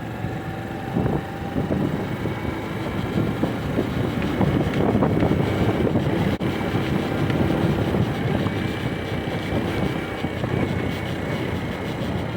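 Honda Super Cub 110 (JA59) small single-cylinder four-stroke engine running steadily, with wind noise on the microphone and a brief dropout about six seconds in.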